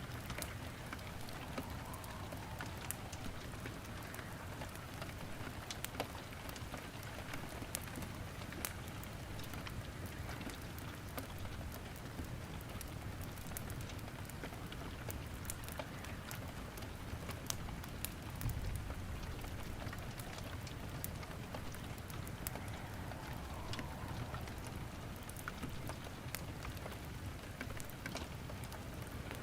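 Steady rain with a wood fire crackling in a fireplace: an even hiss of rain under scattered sharp snaps and pops.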